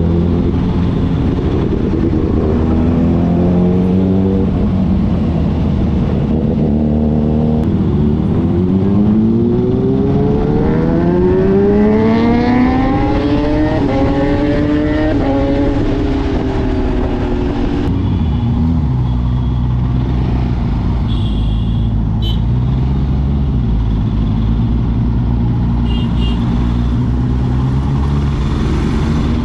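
Vehicle engine running under a constant rumble of road and wind noise. Its pitch climbs steadily for several seconds, then drops twice in quick succession as it shifts up through the gears, before settling to a steady cruise.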